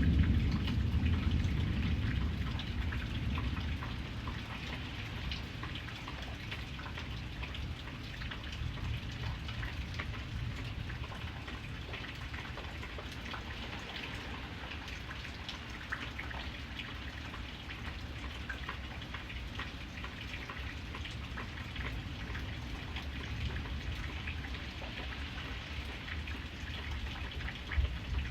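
Steady rain, with dense patter of drops striking a surface. A low rumble of thunder dies away over the first few seconds.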